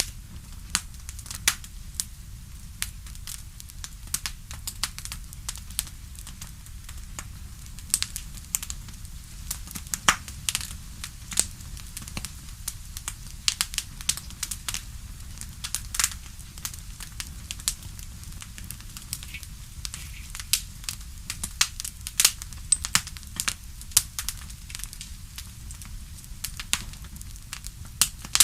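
Crackling wood fire: frequent irregular sharp pops and snaps over a steady low rumble.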